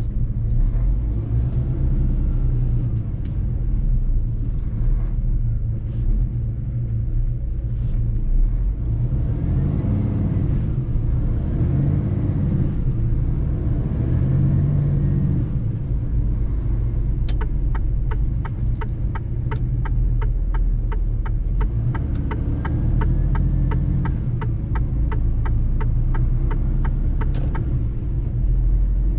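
Mercedes-Benz truck driving on the road, its engine and tyres giving a steady low rumble that swells in pitch and strength midway. In the second half a fast, regular ticking of about four ticks a second runs for roughly ten seconds.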